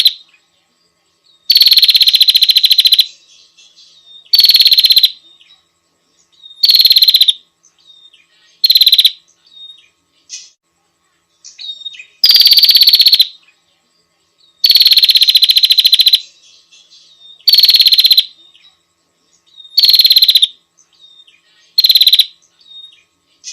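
Female prinia (prenjak) calls used as a lure: loud, rapid buzzy trills, each about a second long, repeated every two to three seconds in two runs of bursts that grow shorter, with near silence between them.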